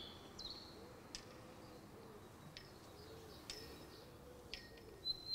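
Faint bird chirps: a handful of short, high notes scattered through otherwise quiet outdoor air.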